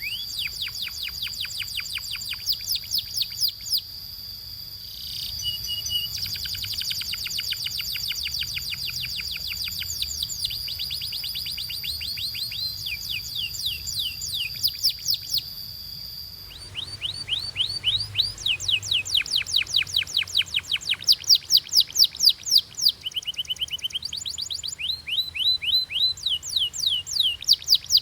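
Domestic canary singing: fast trills of repeated down-sweeping high notes over a long steady high note. About sixteen seconds in the song changes abruptly to louder, sharper trill phrases.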